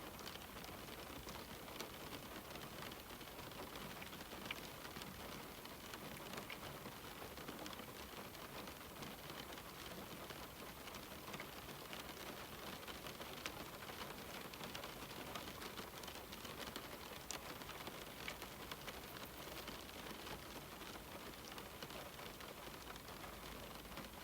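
Steady rain falling on a window, a constant hiss with many small drop ticks scattered through it.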